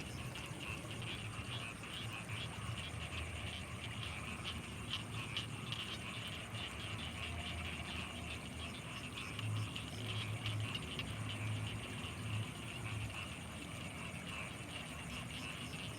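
Night chorus of frogs and insects in flooded rice fields: a dense, steady, rapidly pulsing chorus with a faint steady high tone above it, and some low pulsing for a few seconds midway.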